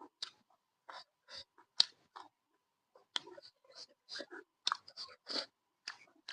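Close-up mouth sounds of a person chewing food: a string of short, irregular wet chewing and smacking noises, roughly two a second.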